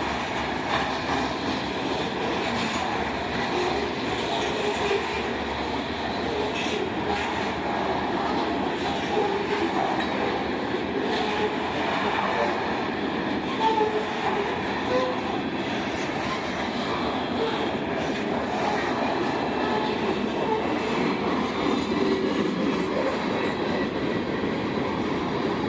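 A train rolling past on the rails, its cars making a steady, continuous rumble with occasional faint clicks from the wheels.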